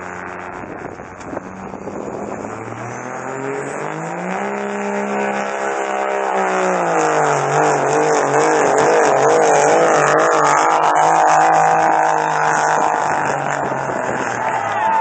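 Turbo-diesel pickup truck engine working under full load in a sled pull. The revs climb and hold about four seconds in, then sag and waver up and down as the truck drags the weight sled, growing louder as it goes.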